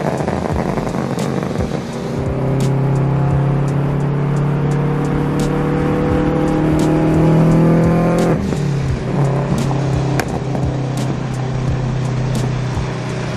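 Supercharged Toyota GT86's Subaru flat-four, breathing through cat-less unequal-length headers and a straight exhaust, pulling hard with the revs climbing steadily for about six seconds. Near the end of the pull the revs fall away sharply at a shift or lift-off. Sharp crackles run through it.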